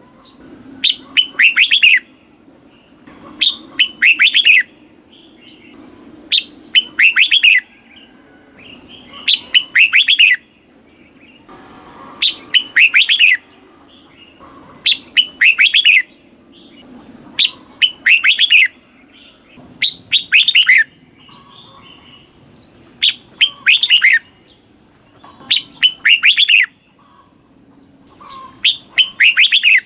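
Red-whiskered bulbul singing, repeating a short, loud phrase of quick notes about every two and a half seconds, around eleven times.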